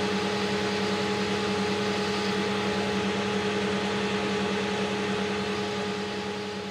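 AL960B metal lathe running steadily with a constant motor and gear whine, easing off near the end.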